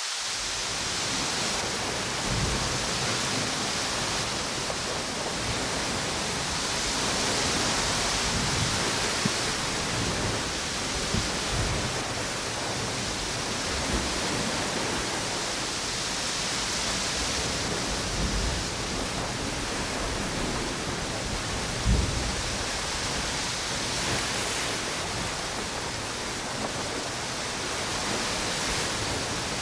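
Ocean waves and strong wind on a beach: a steady rushing noise that slowly swells and eases, with scattered low thumps, the loudest about three quarters of the way through.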